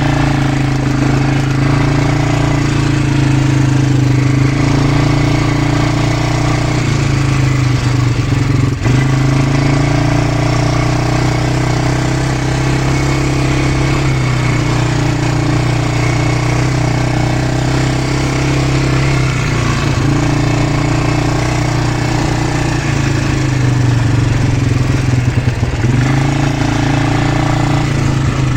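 Quad bike engine running steadily while riding, its note dipping briefly and picking up again a few times.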